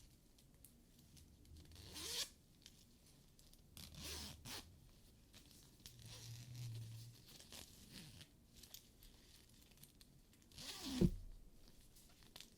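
Hands rubbing and handling a faux-leather purse and its turned-out fabric lining: a few short rasping strokes, the loudest about eleven seconds in with a soft thump.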